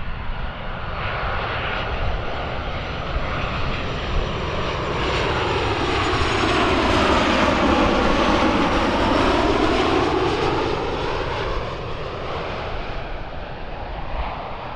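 Airliner's engines as it passes close by, swelling to a loud peak about halfway through with a sweeping, phasing whoosh, then fading away.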